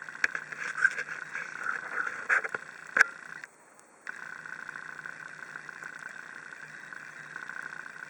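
Wood fire burning in a campfire stand, crackling with several sharp pops in the first three seconds over a steady hiss. The sound cuts out briefly about three and a half seconds in, then the hiss resumes.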